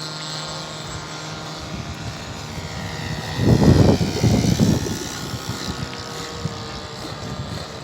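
Radio-controlled model aircraft flying past, its engine note rising and then sliding down in pitch. A loud rumbling burst comes about three and a half seconds in.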